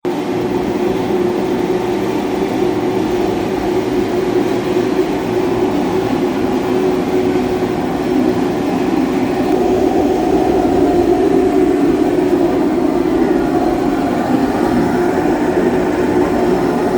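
Steady, loud mechanical rumble with no breaks or distinct hits.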